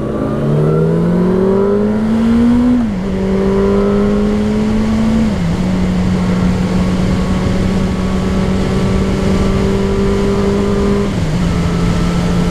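Motorcycle engine pulling away and working up through the gears: its note climbs, then drops with an upshift about three seconds in and again about five and a half seconds in. It then holds a steady cruising note until another shift near the end, with wind and road noise underneath.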